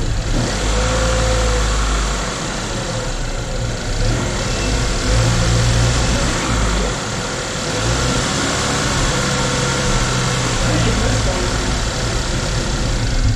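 2012 Chevrolet Equinox engine running soon after a timing chain repair, idling with its note shifting up and down a few times.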